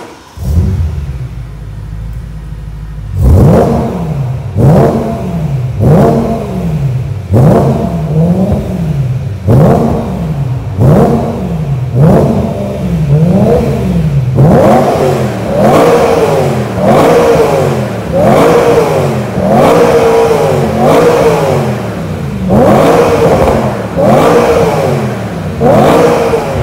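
BMW M3 E92's 4.0-litre V8 through EVOX SuperSport mufflers with mid-pipe, idling steadily for about three seconds and then blipped over and over, roughly three revs every four seconds, each rising and falling quickly. The revs climb higher and sound louder in the second half.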